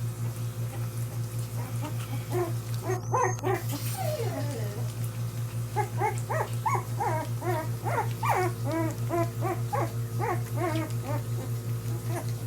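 Several Portuguese Water Dog puppies whimpering and squeaking: many short cries that rise and fall in pitch, a few at first, then coming thick and overlapping from about six seconds in. A steady low hum runs underneath.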